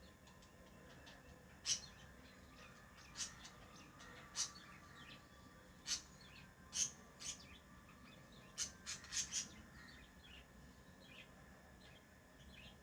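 Pet lovebirds giving short, sharp, high chirps, singly or in pairs with gaps of a second or more, then a quick run of four about two-thirds of the way through.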